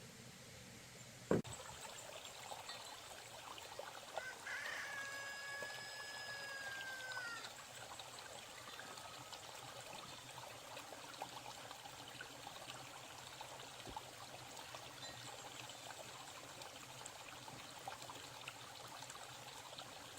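A rooster crows once about four seconds in, a long held call that drops at the end, over a steady trickle of running water. A single sharp knock sounds just over a second in.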